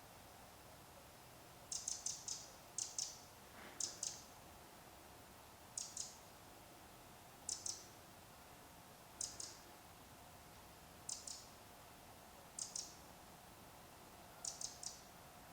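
Songbird calls: short, high clicking notes in quick runs of two to four, repeating every second or two, with a faint steady hum beneath.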